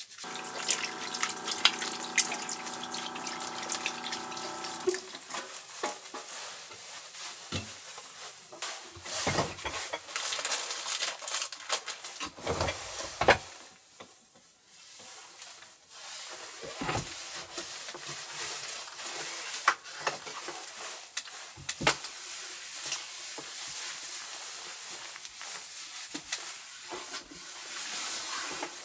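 Water running and splashing, with small clinks and knocks of things being handled. A steady hum is heard for about the first five seconds.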